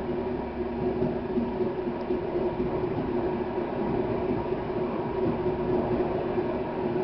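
Çukurova Blue Train passenger train running along the track: a steady rumble of wheels on rail with a low hum underneath, heard from inside the coach through its window.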